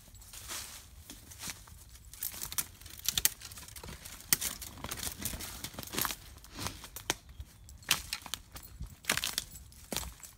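Footsteps crunching on hard-frozen, frosty ground: an irregular run of crackles and crunches.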